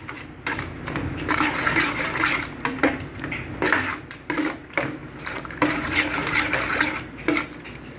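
A spoon stirring a pot of sweet and sour chicken sauce, knocking and scraping against the pot in irregular strokes, with wet sauce sounds.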